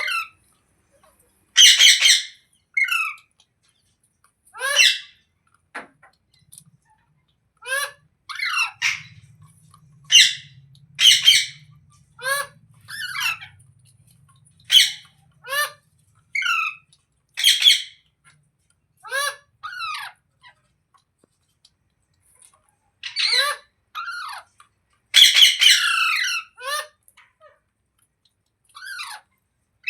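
Green rose-ringed parakeets (Indian ringneck parrots) squawking in short, harsh, repeated calls, some falling in pitch. Two dense, loud bursts of calls come near the start and again near the end.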